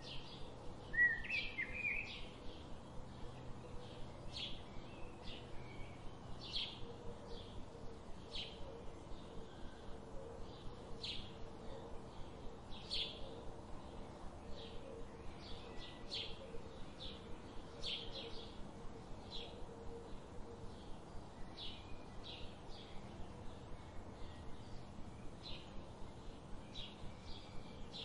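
Small birds chirping: a steady run of short, high chirps, with a louder warbling call about a second in, over a faint background hiss.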